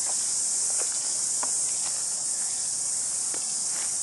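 Chorus of cicadas singing in the trees: a steady, high-pitched buzzing hiss that does not let up, with a few faint clicks over it.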